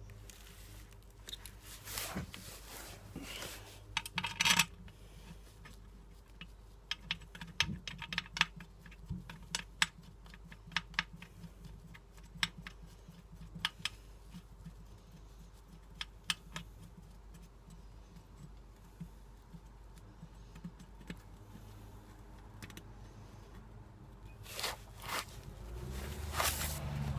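Scattered light metallic clicks and clinks of hand tools and small bolts being handled while working on a motorcycle's oil pan, at an irregular pace, with a louder low bump near the end.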